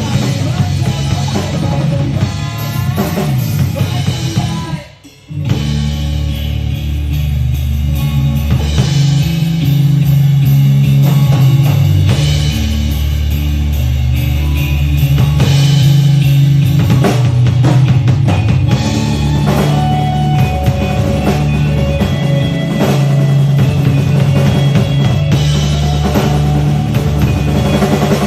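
Drum kit played over a rock backing track, with kick and snare driving the beat under sustained bass notes. About five seconds in, everything stops short for a moment, then the band and drums come back in together.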